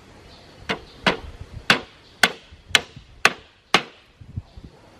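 Seven sharp strikes of a hand tool in a steady rhythm, about two a second, stopping a little before the four-second mark.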